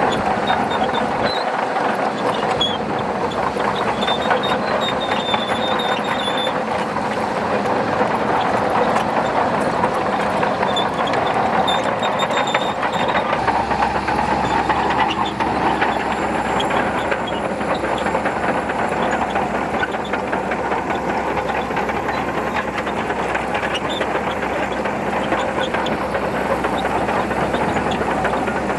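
Shantui DH17C2 bulldozer working: its diesel engine runs steadily, with a dense clatter of the steel tracks over it.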